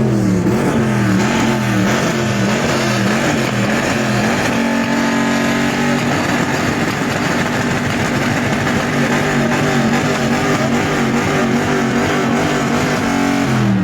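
Car engine revved up and down repeatedly for a few seconds, then held at a high, steady pitch on a two-step launch limiter for about eight seconds, dropping back near the end.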